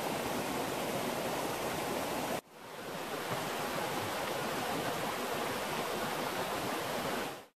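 Water pouring steadily from a spring's pipe, a continuous rushing splash. It cuts out abruptly about two and a half seconds in, swells back, and fades away at the end.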